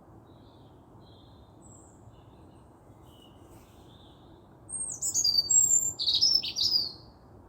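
A songbird singing: faint scattered chirps, then about two seconds of loud, quick, sliding high notes from two-thirds of the way in, over a steady low background noise.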